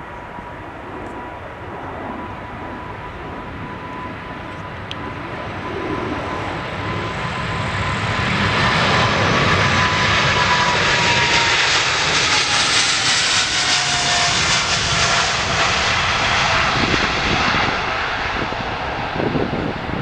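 Boeing 777 freighter's twin GE90 jet engines at takeoff power: the engine noise builds to a peak and then eases as the aircraft passes. A whining tone runs through it and drops in pitch as the aircraft goes by.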